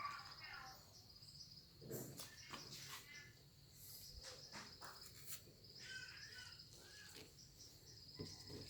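Faint outdoor ambience: insects trilling steadily, with a few short bird chirps and scattered clicks.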